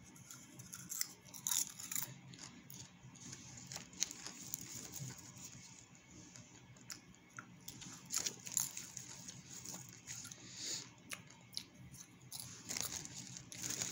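A person eating popcorn, biting and chewing the popped kernels with irregular soft crunches.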